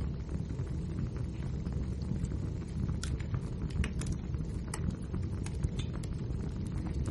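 Wood fire burning with a steady low roar and scattered sharp crackles and pops, a cluster of them a few seconds in.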